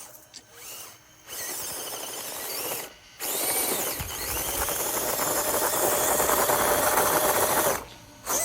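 Axial SCX24 mini RC crawler's small electric motor and gear drivetrain whirring as the truck drives: a short run, then after a brief pause a louder, longer one of about four and a half seconds that stops suddenly.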